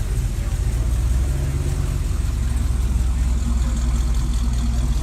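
A classic car's engine idling close by with a steady, even pulse, and a higher tone in it from about two seconds in.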